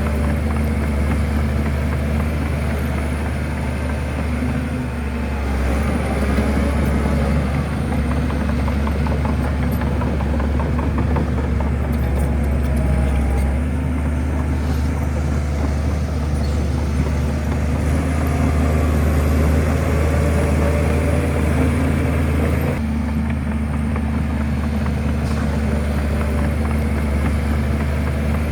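Shantui bulldozer's diesel engine running steadily with a deep, even hum.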